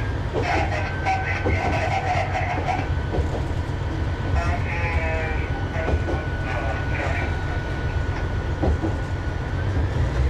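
Tarumi Railway Hi-Mo 230 diesel railcar running slowly, heard from inside the car: a steady low engine and running drone with scattered wheel clicks over the rail joints. Brief tonal squeals and a thin steady high whine come and go over it.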